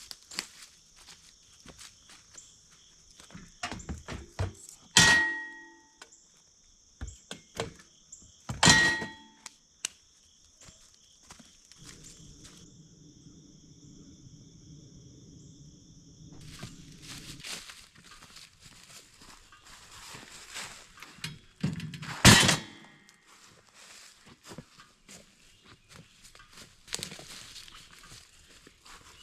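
Three loud thunks about five, nine and twenty-two seconds in, each with a short ringing tone, among lighter knocks and steps. A steady high buzz runs underneath and stops a little past halfway.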